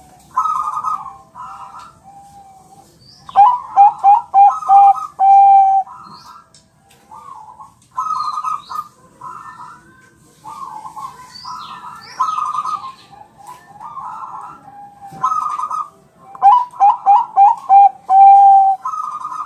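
Zebra dove (Bangkok-type perkutut) cooing in repeated phrases of coo notes. Twice, about three seconds in and again near sixteen seconds, it gives a loud phrase of rapid stuttering notes that ends in a long, steady, lower note.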